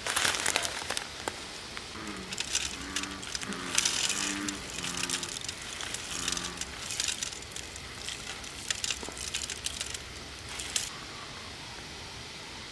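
Frogs calling in short, deep croaking notes a few times, over clicking and rustling from gear being handled close by.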